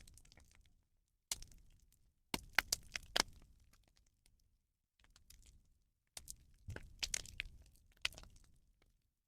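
Rubbish bonfire crackling, with irregular sharp snaps and pops in clusters and brief silent gaps between them.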